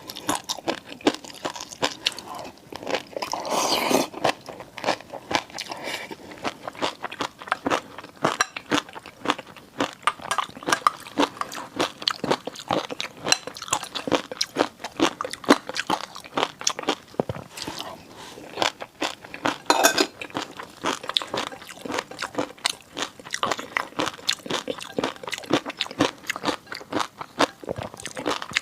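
Close-miked eating: chewing with a rapid, continuous run of crisp crunching clicks.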